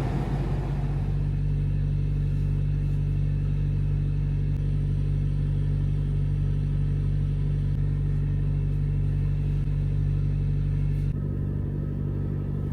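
Semi truck's diesel engine idling with a steady low hum; the sound changes abruptly about eleven seconds in.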